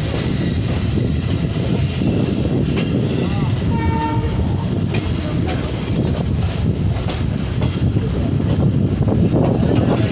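Train running along the track, a steady loud rumble with wheel clatter, and a brief horn sounding about four seconds in.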